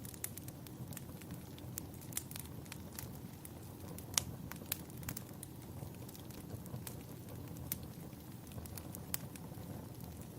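Wood fire burning in a fireplace, crackling and popping with irregular sharp snaps, the loudest about four seconds in, over a low steady rumble.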